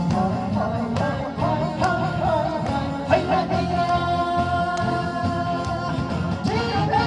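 Korean trot song sung over band accompaniment with a steady beat; the singer holds one long note from a few seconds in until near the end.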